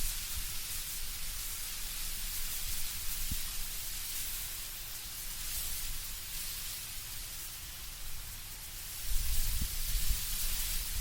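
Wind blowing through autumn trees, leaves rustling as a steady hiss, with a low rumble of wind that swells near the end.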